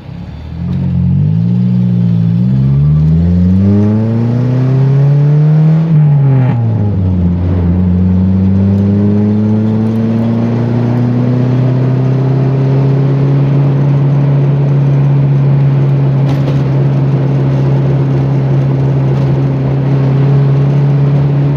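Suzuki Forsa's engine accelerating hard through the gears, heard from inside the car: the engine note climbs, drops at a shift about two and a half seconds in, climbs again, falls away about six seconds in, then rises slowly and settles into a steady drone at cruising speed.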